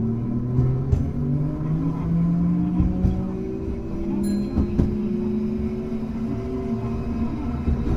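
Hankai Tramway car 351 running, its motor and gear whine slowly rising in pitch as the tram gathers speed, with a few sharp clicks from the wheels and rails.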